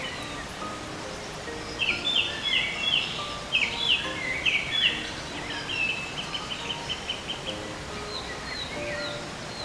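A songbird singing: a series of loud, short notes sweeping downward, followed by a fast, even trill of repeated notes, with fainter calls near the end.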